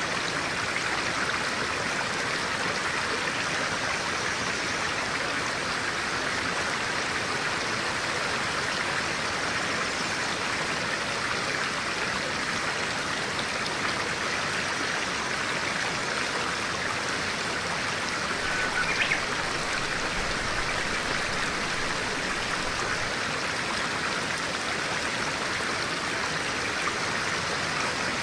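Clear stream water running steadily over stones, an even rushing flow. About two-thirds of the way through, a brief, sharper sound rises slightly above the flow.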